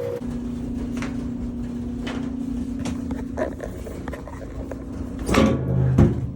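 Plastic washing-machine parts being handled and worked loose: scattered clicks, then a louder rattle and a sharp snap near the end, over a steady low hum.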